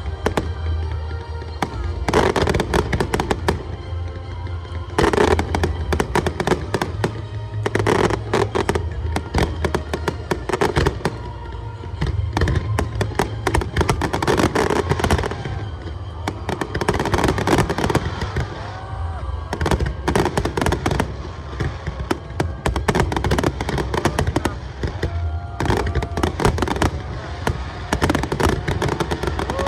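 Fireworks display in a dense barrage: rapid shell bursts and crackling, one after another, over show music with a steady bass.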